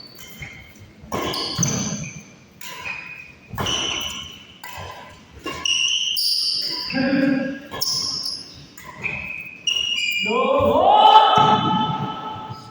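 A badminton rally on an indoor court: rackets striking the shuttlecock every couple of seconds, with sneakers squeaking on the court floor and voices in between.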